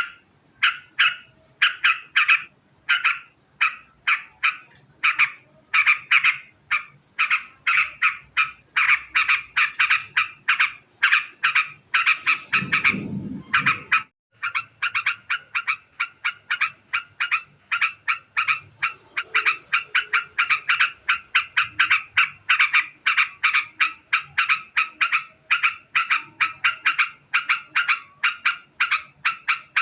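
Yellow-vented bulbul (trucukan) chattering in a long, very fast run of short repeated notes, several a second. About halfway through, a brief low rumble sounds under the calls and they pause for a moment before the chatter resumes.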